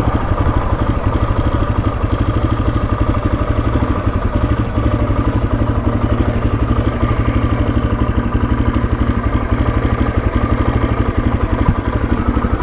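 Suzuki DRZ's single-cylinder four-stroke engine running steadily, an even train of rapid firing pulses. The rider says it will only keep running with the choke set halfway out.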